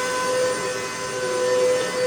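Hoover MaxLife Total Home Pet vacuum cleaner running steadily during a suction test, its motor giving a constant whine over a steady rush of air.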